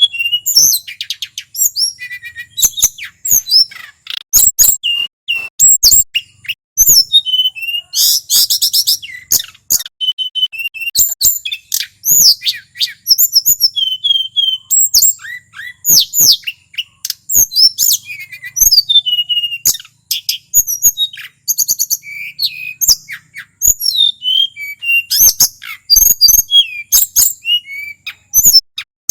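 Male tledekan gunung (Sunda robin) in full song: a fast, varied stream of high whistles, rapid trills and sharp clicking notes with only brief pauses.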